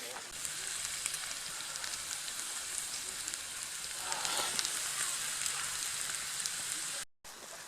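Food sizzling in a frying pan over a campfire: a steady hiss with small crackles and pops, a little louder about four seconds in. It breaks off for an instant near the end.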